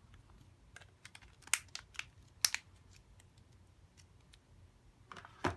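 Handling noises: scattered light clicks and crinkles as a smartphone, its plastic back cover and the paper packaging are handled, with a few sharper clicks about a second and a half to two and a half seconds in and another cluster near the end.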